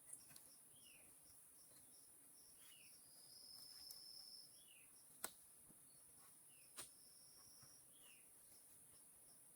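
Faint rainforest ambience: a steady high insect hiss, with a short falling call repeating every second or two and a long high steady tone twice. There are two or three sharp clicks.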